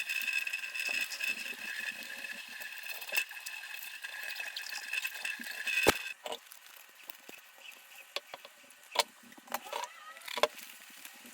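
Refrigerator condenser fan motor squealing, a steady high-pitched tone that stops with a sharp click about six seconds in: the fault for which the motor is being replaced. Scattered light clicks and rattles follow.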